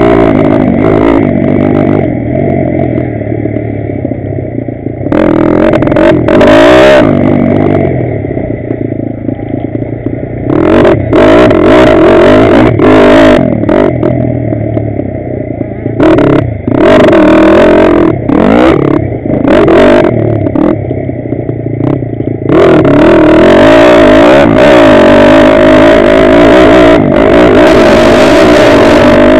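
Pitsterpro 160cc pit bike's single-cylinder four-stroke engine revving hard, heard from the rider's helmet camera. The throttle is snapped open and closed over and over, the pitch rising and falling, and the engine holds a long flat-out run through the last quarter.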